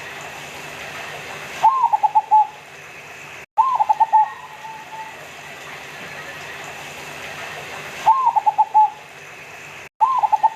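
Zebra dove (perkutut, local Indonesian type) singing: four short cooing phrases, each a rising note followed by a quick run of clipped coos, coming in two pairs about two seconds apart over a steady hiss. The sound cuts out briefly just before the second phrase of each pair.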